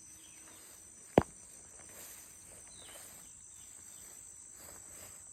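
A steady, high-pitched chorus of insects trilling without a break. About a second in there is one sharp click.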